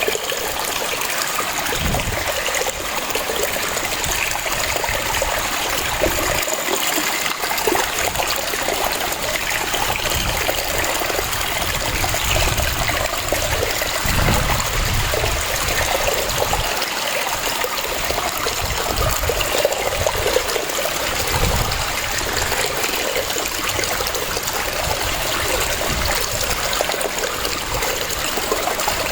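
Waterfall: water rushing and splashing steadily, with a low rumble that swells and fades every few seconds.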